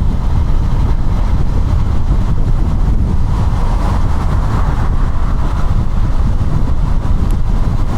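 KTM Duke 200's single-cylinder four-stroke engine running steadily under way, with wind buffeting the camera microphone as a loud, steady low rumble.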